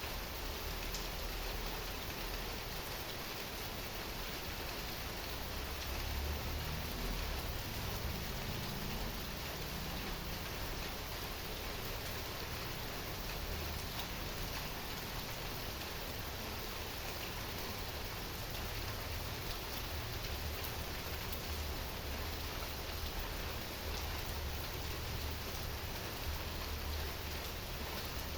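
Heavy rain falling steadily, a dense even hiss with scattered drops ticking on surfaces.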